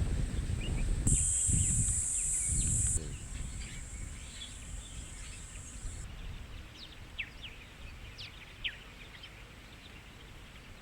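A low rumble for about the first three seconds, then quieter open-air ambience with scattered short bird chirps.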